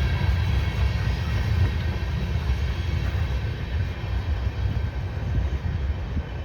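Freight train running past on the rails: a low, steady rumble that slowly fades, with faint high steady tones dying away in the first couple of seconds.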